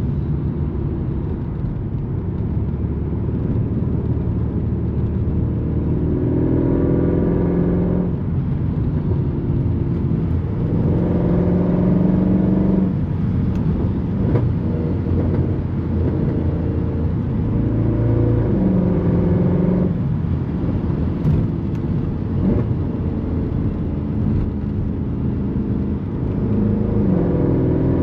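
Straight-piped M156 naturally aspirated V8 of a 2009 Mercedes C63 AMG accelerating through the gears: its pitch climbs four times, each climb ending in a sudden drop at a shift, with a steady drone at cruise in between.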